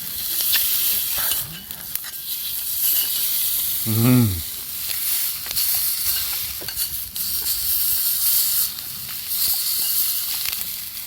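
Bone-in rib roast sizzling in a pan, a steady frying hiss with small crackles. About four seconds in, a short hum of a voice.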